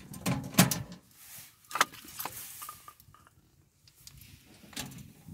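A few sharp knocks and clatters from working a wood stove's door and fire tongs while wood is put in, with a quiet stretch in the middle.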